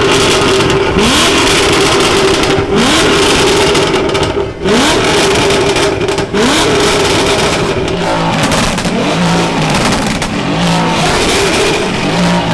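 A BMW engine revved hard again and again: each rev climbs quickly and is held high before dropping, every second and a half or so. In the last few seconds it switches to shorter, lower blips.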